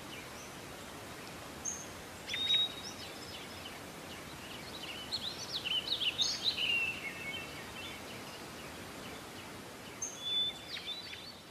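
Wild birds chirping and singing in short, high calls, busiest in the middle and again near the end, over a faint steady hiss.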